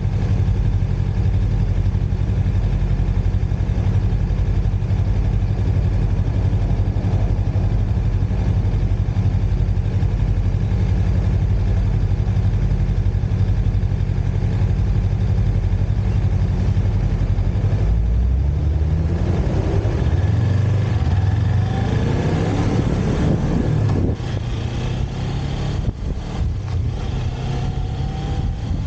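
Motorcycle engine idling steadily, then revving up and accelerating away about 18 seconds in, the pitch rising through the gears. Near the end the engine is quieter under wind noise.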